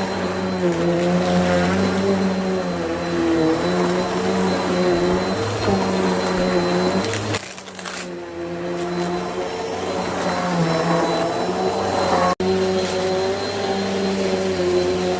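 Bissell vacuum cleaner running steadily, its motor pitch wavering slightly as the load changes. The level dips briefly about seven and a half seconds in, and the sound cuts out for an instant about twelve seconds in.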